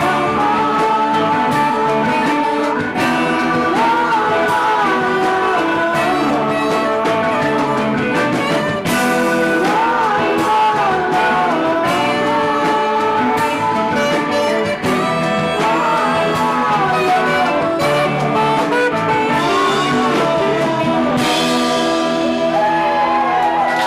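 Live band playing a song, with guitar and a wavering sung lead melody over a steady full band.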